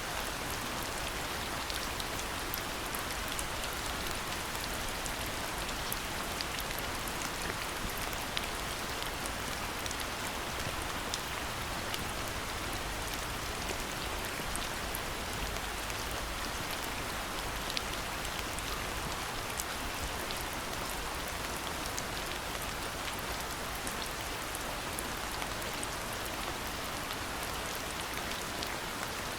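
Steady rain falling, a dense even hiss with many separate drops ticking sharply on hard surfaces close by.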